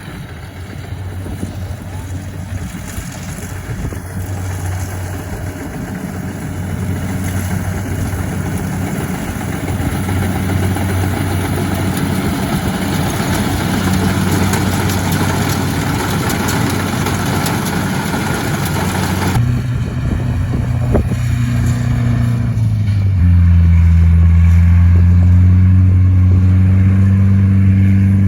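A motor engine running steadily with a low hum. About two-thirds of the way through the sound changes abruptly, and a few seconds later the engine becomes louder and deeper.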